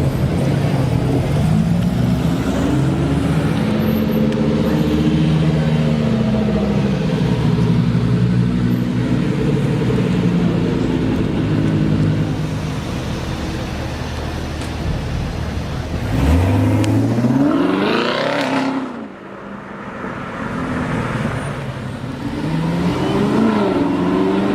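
Supercar engine and exhaust running loudly with the revs rising and falling; about sixteen seconds in it revs hard, the pitch climbing steeply before cutting off abruptly, and it rises again briefly near the end.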